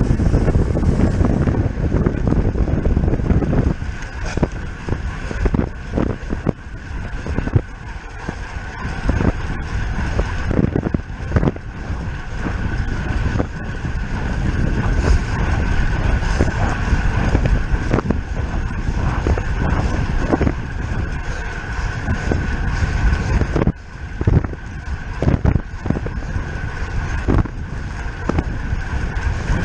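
Wind buffeting the microphone of a road bicycle ridden at race speed, with rough gusts and bumps, over a steady high whir.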